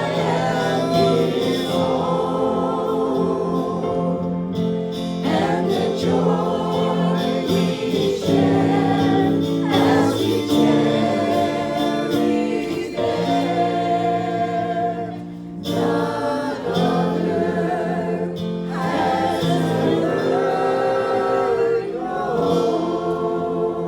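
Gospel song sung by a group of voices over instrumental backing, with long held chords, fading as it ends.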